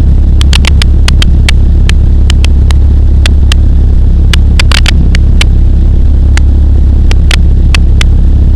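Pulsar XP microlight aircraft's engine droning steadily and very loud in flight, with scattered sharp clicks over it.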